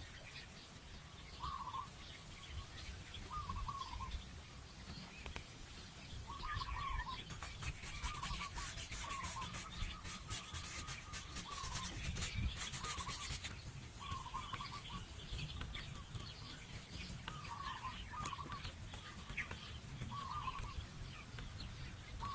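A bird calling over and over in short chirps about every second or two. A stretch of rapid scraping runs from about seven to thirteen seconds in, under a steady low rumble.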